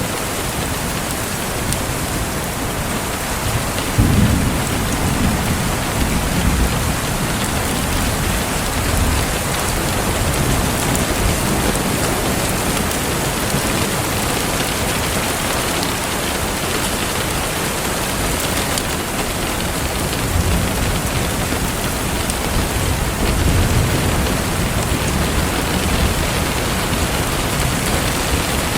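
Steady rain falling, with a low rumble of thunder that starts suddenly about four seconds in and rolls on for a few seconds, and another near the end.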